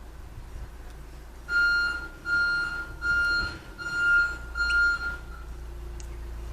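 An electronic beeper sounds five times: steady, high-pitched beeps, each about half a second long, evenly spaced, starting about a second and a half in.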